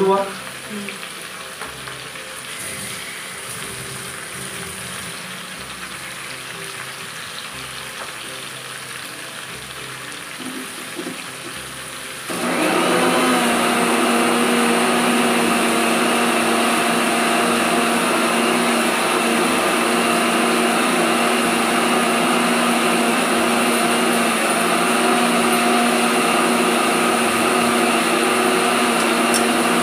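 Mutton, onions and tomatoes frying in oil in an iron kadai, a steady sizzle. About twelve seconds in, a steady electric-motor hum with a whine suddenly starts and carries on, louder than the frying.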